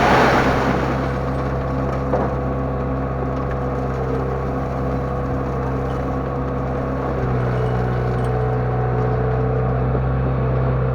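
LONKING CDM307 skid steer loader's engine running steadily under work, opening with a short rush of noise and a single knock about two seconds in; the engine note shifts slightly about seven seconds in.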